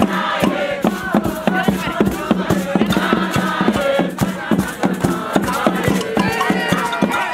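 A group of voices singing and chanting together over quick, steady percussion strikes.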